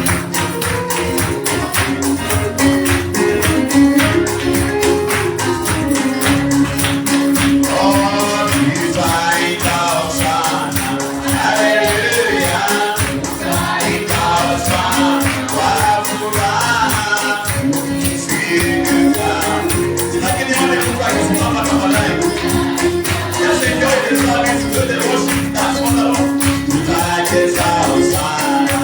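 Gospel praise-and-worship song: a choir of voices singing over a sustained low instrument and a steady percussion beat, with the voices coming in strongly about a quarter of the way in.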